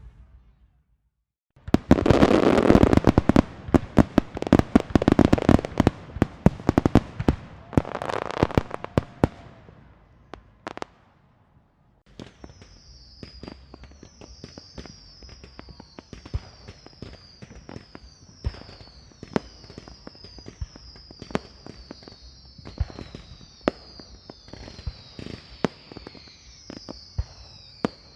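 A string of firecrackers going off in a rapid, dense run of sharp bangs for about eight seconds, starting a couple of seconds in. After a short pause comes a quieter stretch of scattered firework pops, with a short high falling whistle repeating about once a second.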